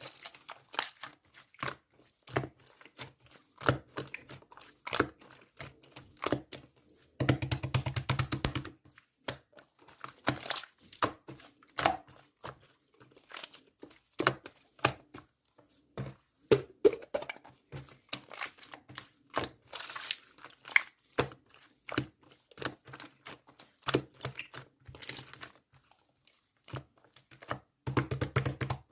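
Clear slime marbled with clay being squished and poked by hand, making scattered sticky clicks and pops. There are two longer runs of rapid crackling, one about seven seconds in and one near the end.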